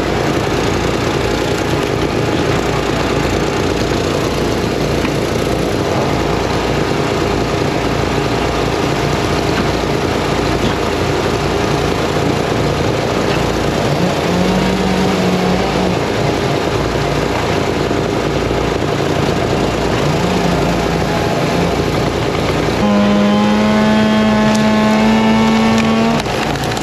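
Many small engines running at once, chainsaws and wood splitter engines, in a continuous loud din. A steadier engine note rises above it briefly twice, then for about three seconds near the end.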